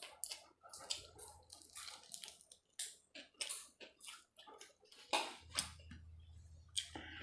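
A person eating tandoori chicken: irregular wet chewing and biting sounds, a few a second.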